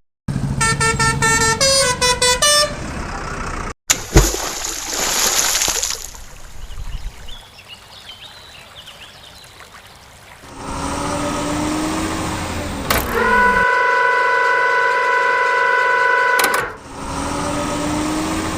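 Vehicle horn sound effects: a quick run of stepped toots, a rush of noise, then a low tone that rises and falls and a long steady horn blast of nearly four seconds.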